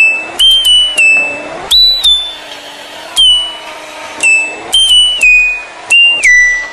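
Washing machine's electronic beeper playing a tune: a run of loud, high beeps that step up and down in pitch, about a dozen notes in short phrases.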